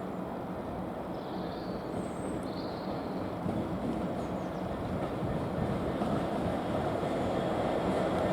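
Diesel-hauled train approaching, its rumble growing steadily louder, with a few faint high squeaks about two seconds in.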